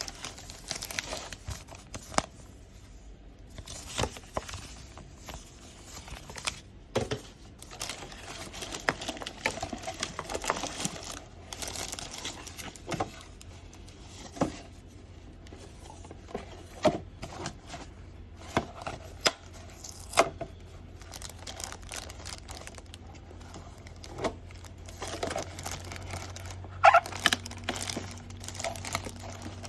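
Packaging being handled during an unboxing: irregular crinkling, tearing and sharp clicks, with a faint low hum underneath.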